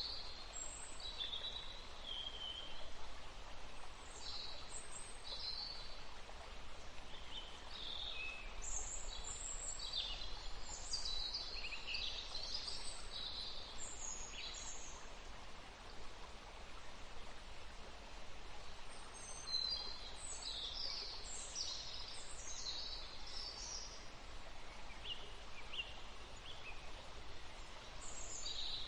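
Several small songbirds chirping and twittering in quick overlapping calls, busiest in two spells mid-way, over a steady outdoor background hiss.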